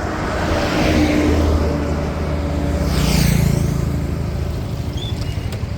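Motor vehicle engines running with road noise, and a vehicle passing close by about three seconds in.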